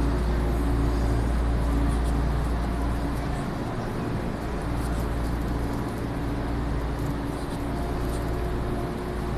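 Steady rumble and hum of a train, with a deep low drone that eases a few seconds in.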